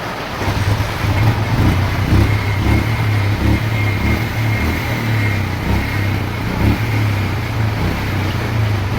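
Bajaj Pulsar 150's single-cylinder four-stroke engine catching from a kick start about half a second in, then running unevenly with irregular dips and pulses: it is misfiring.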